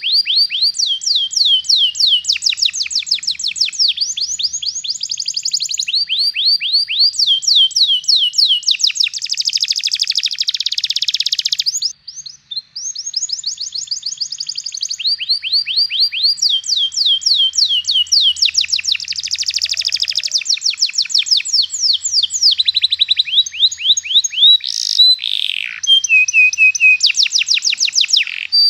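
Domestic canary singing long rolling trills: rapid runs of repeated down-sweeping notes, phrase after phrase changing speed and pitch, with a brief pause about twelve seconds in.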